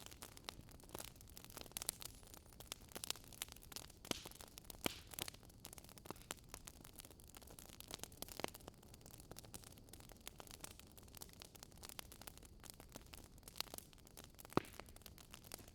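Wood fire burning: irregular crackles and sharp pops over a soft hiss, with a few louder pops near the end.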